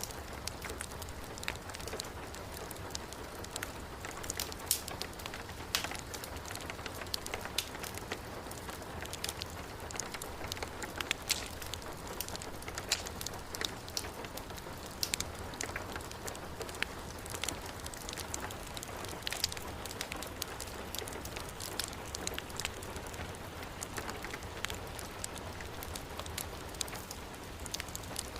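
Heavy rain falling steadily, mixed with a wood fire in a fireplace crackling. Many sharp irregular pops sit over a steady hiss and a low rumble.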